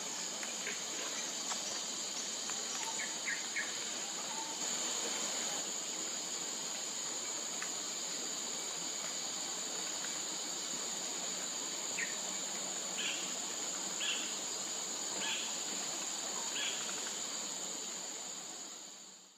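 Steady high-pitched insect drone in outdoor ambience, with scattered short bird notes. Near the end a bird gives four evenly spaced call notes about a second apart. The sound fades out at the very end.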